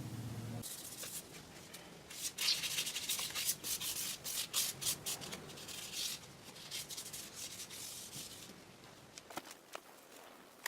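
Sandpaper rubbed by hand over the filler-primed surface of an alloy wheel rim, a run of quick, uneven scratchy strokes. The strokes stop about eight seconds in, followed by a few faint clicks.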